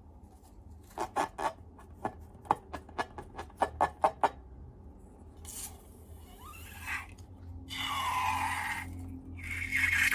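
Slime being handled in an ASMR session: a quick run of about a dozen sticky clicks and pops, then longer noisy scraping and rubbing that grows louder toward the end.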